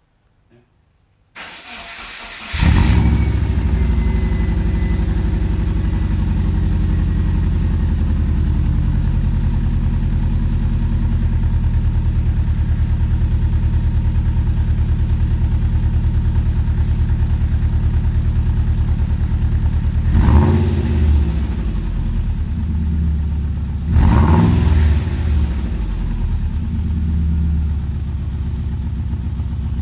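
Subaru Impreza flat-four boxer engine with unequal-length headers and the exhaust baffle in. It cranks briefly, catches and runs at a steady idle on its first start since the headers were fitted. It is blipped twice, about three and a half seconds apart, late on, and drops back to idle after each blip.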